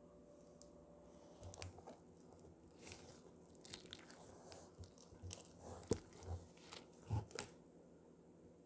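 Slime being squeezed and poked by hand, giving a run of faint, irregular crackles and pops, with the sharpest ones about 1.5 s in and between 6 and 7.5 s in.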